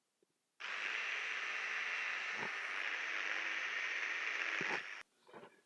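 Mini food processor running steadily, pureeing cooked eggplant with tahini. It starts about half a second in and cuts off abruptly about five seconds in.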